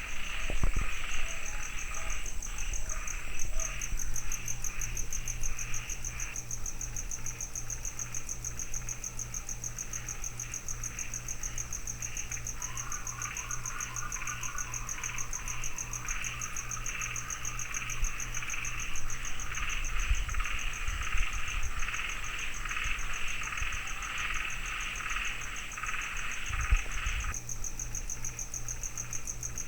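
Steady chorus of calling insects: a high, rapidly pulsing trill over a lower pulsing chorus, which stops a couple of seconds before the end. A short run of rapid lower notes joins briefly around the middle.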